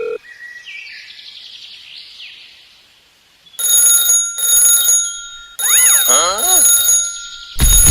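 Electronic toy sound effects: faint stepped bleeps, then loud bursts of shrill alarm-like ringing a few seconds in. Midway a falling, warbling chirp slides down several times.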